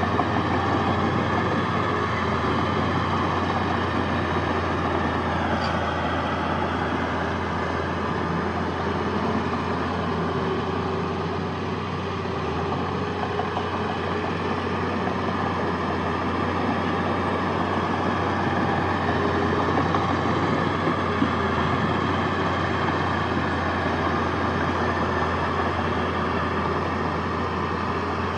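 Heavy diesel earthmoving machinery running steadily, a continuous engine drone with a deep low hum.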